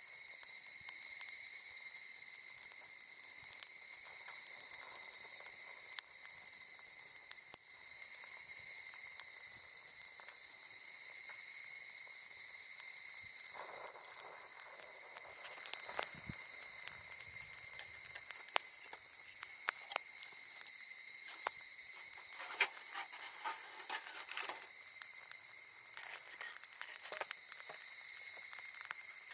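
Insects trilling steadily at a high pitch, swelling and fading every few seconds, over sharp crackles and pops from a wood campfire that come more often in the second half.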